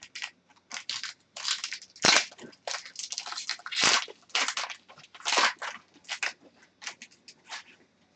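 Crinkling and rustling of plastic card packaging handled close to the microphone, a run of irregular crackles, loudest about two and four seconds in.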